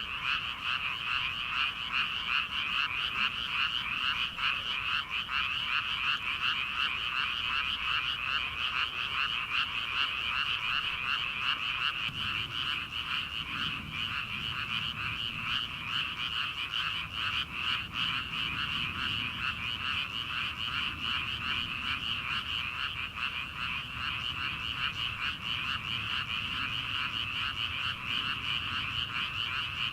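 Dense chorus of many frogs calling together from a rice paddy: a steady wall of rapid, overlapping croaks and trills, with a faint low rumble underneath.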